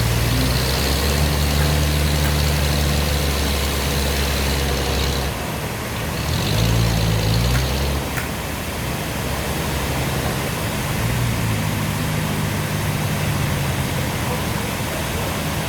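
Sawmill machinery running: a steady engine drone whose pitch shifts a couple of times, under a constant high hiss.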